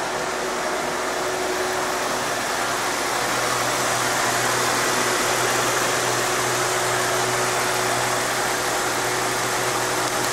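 Nissan Fairlady Z (Z33) V6 running steadily at idle through a Vertex TITAN aftermarket muffler; it gets slightly louder a few seconds in.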